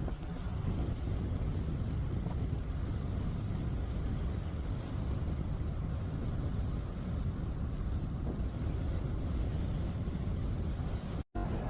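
Steady low rumble of a moving vehicle, with no distinct tones, cutting out for a moment near the end.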